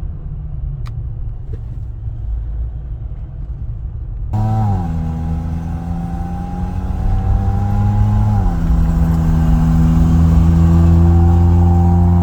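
The Jeep Wrangler's 3.0-litre EcoDiesel V6 and road noise while driving. About four seconds in, the engine note comes up louder and clearer. Its pitch drops twice as the automatic transmission shifts up, climbing slowly between the shifts as the Jeep accelerates.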